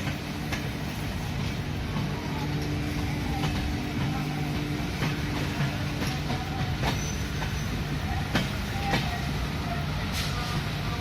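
Passenger train running along the track: a steady low rumble and hum of the rolling coaches, with irregular sharp clicks from the wheels on the rails and a few brief faint wheel squeals.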